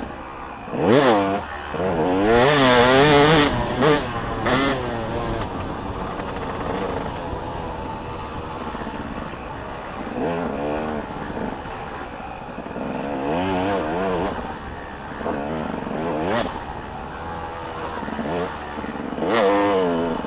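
Motocross bikes' engines revving up and down rapidly as they ride past, loudest about a second in, from two to four seconds in, and again near the end.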